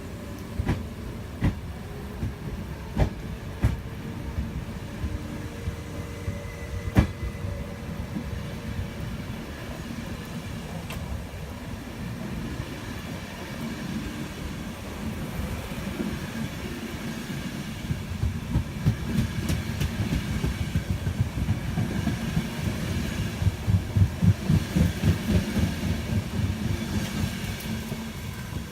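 Train passing on the line, its wheels clicking over the rail joints. A few sharp knocks come early on, then the rhythmic clatter builds and is loudest near the end.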